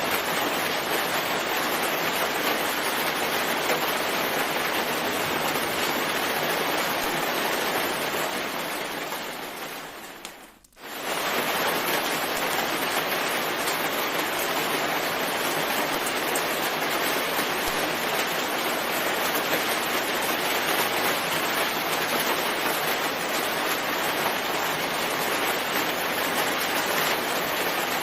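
Steady rain as a dense, even hiss. It fades out about eight seconds in, drops to near silence for a moment, then returns abruptly.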